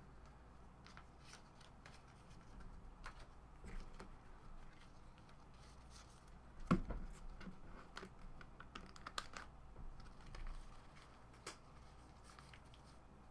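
Faint scattered clicks and rustles of baseball trading cards being handled and flipped through, with one sharper tap about seven seconds in.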